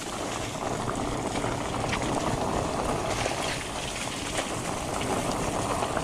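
Fat bike rolling along a muddy dirt trail: a steady rush of tyre and wind noise with scattered clicks and rattles.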